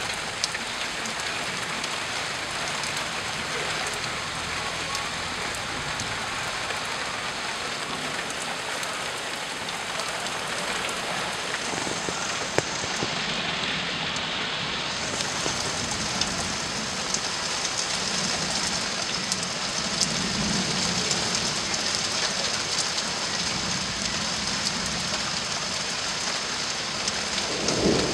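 Steady rain from a thunderstorm, with scattered sharp ticks of individual drops. A low rumble of thunder starts to build right at the end.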